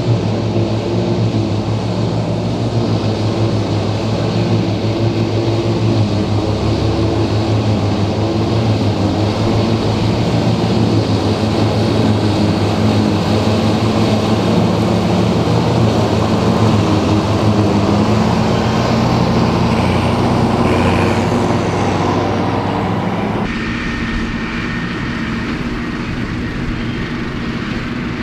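Tractor diesel engine running steadily with machinery working. The sound changes abruptly about 23 seconds in and becomes slightly quieter.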